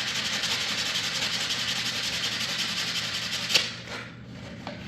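Sandpaper rubbed quickly back and forth along the edge of a laminate floor plank, easing its tight fit. The sanding stops after about three and a half seconds with a sharp click.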